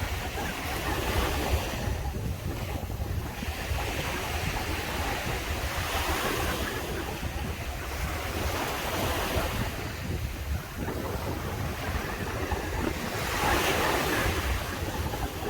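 Sea waves breaking and washing up a beach, swelling and easing every few seconds, with wind buffeting the microphone.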